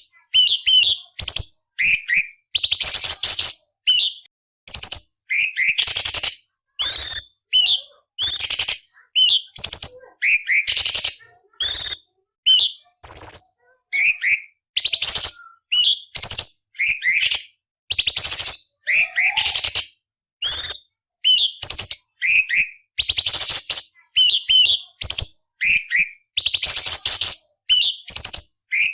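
Orange-bellied leafbird (cucak cungkok) singing a fast run of short phrases, about one a second with short gaps. Harsh, rasping notes alternate with brief clear whistles.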